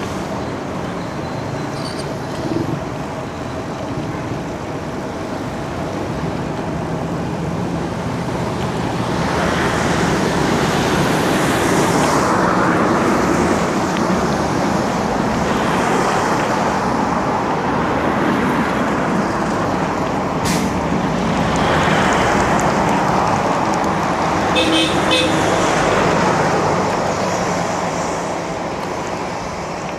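Road traffic heard from a bicycle in town: motor vehicles pass, their engine and tyre noise swelling and fading. A vehicle horn toots briefly about 25 seconds in.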